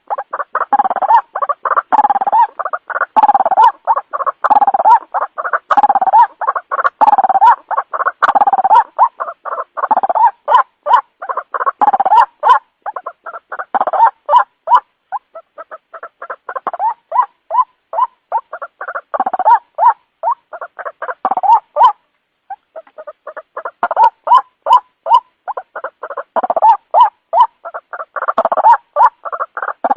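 White-breasted waterhen calling, the lure call used to draw the birds in. A long, loud run of rapid, repeated harsh notes breaks off briefly about two-thirds of the way through, then resumes.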